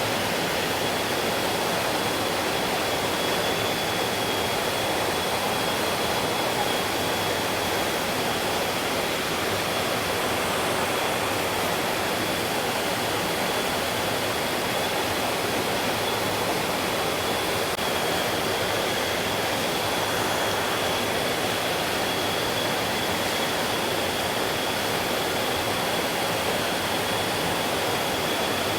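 Mountain stream water rushing steadily over rocks, an even, unbroken sound, with a thin steady high tone above it.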